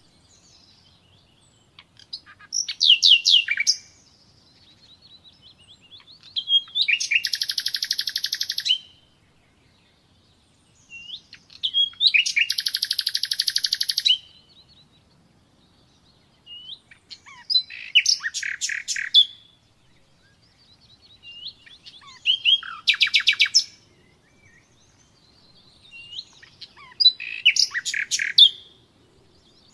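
Nightingale singing: six separate phrases of rapid repeated notes, each about two seconds long with pauses of a couple of seconds between, several opening with soft rising whistles.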